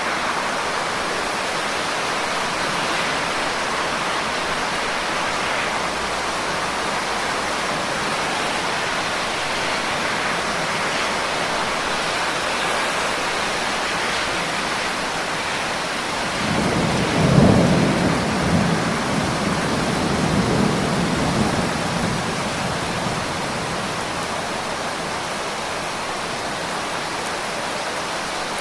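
Steady rain with a low roll of thunder a little past halfway through, loudest at its onset and rumbling away over several seconds.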